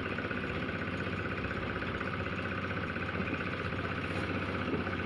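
Engine-driven cement mixer running steadily with an even, rapid pulse.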